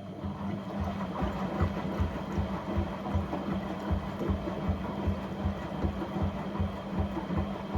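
A household appliance motor starts up and runs on a cleaning cycle with a dishwasher tablet: a steady hum with regular low thumps about two to three times a second.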